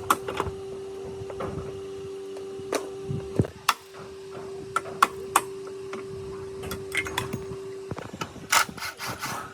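A small motor running with a steady hum that cuts out briefly twice, amid many sharp clicks and taps.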